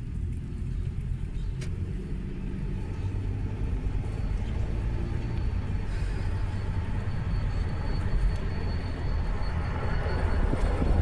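Freight train cars rolling past with a steady low rumble that grows louder toward the end. A faint thin high squeal joins about halfway through.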